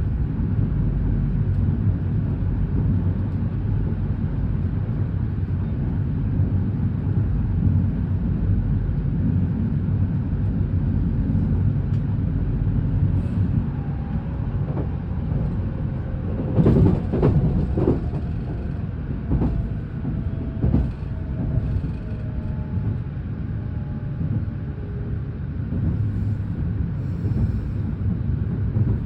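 Inside a JR West electric train's passenger car: a steady low rumble of the carriage running on the rails, with a short cluster of knocks and squeaks about two-thirds of the way through.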